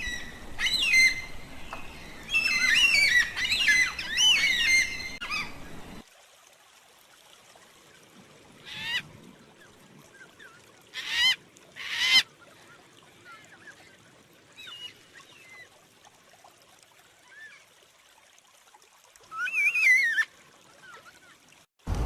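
Yellow-tailed black cockatoos calling with wavering, high-pitched wails. A dense run of overlapping calls fills the first six seconds, then single calls come at intervals, the two loudest about halfway through and a short cluster near the end.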